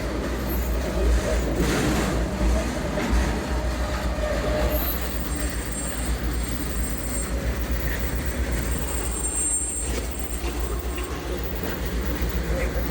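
Freight train rolling along, heard from aboard: a steady rumble and rattle of the wheels and cars, with a faint high squeal that comes in twice around the middle.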